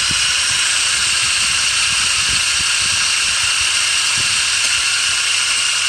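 A running belt pulley with an abnormal noise: a steady high-pitched whine over a hiss, with an uneven low rumble underneath.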